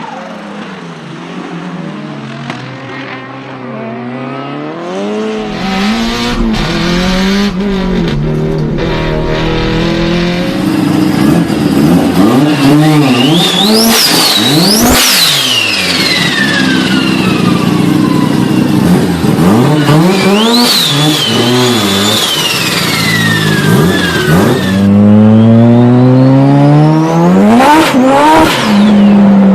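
Turbocharged car engine revved again and again, its pitch climbing and falling. A high turbo whistle rises on each rev and sweeps down when the throttle closes, with turbo flutter on lift-off.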